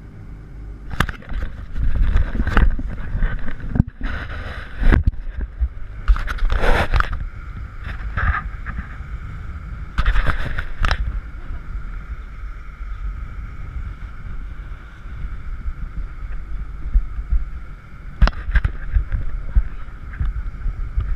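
Jet boat running at speed on river rapids: wind buffeting the action camera's microphone over a steady engine drone, with several sudden loud rushes of noise through the first half and once more near the end.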